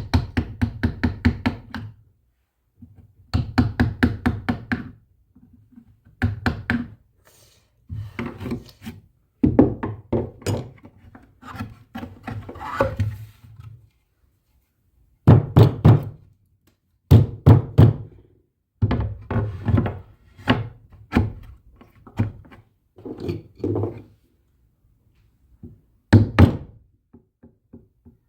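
Wooden knocking in quick bursts, several sharp strikes a second, with short pauses between the runs.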